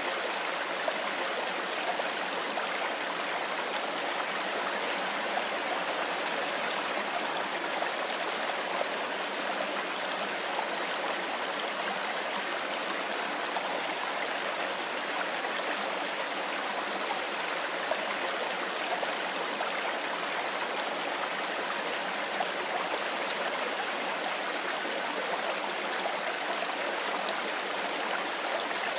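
Mountain river rushing steadily over stones, an even, unbroken rush of flowing water.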